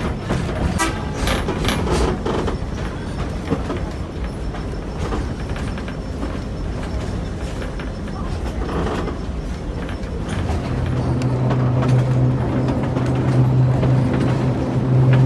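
Small tourist tram (bondinho) running on its rails with a steady rattle. About two-thirds of the way in, a steady low tone starts and holds.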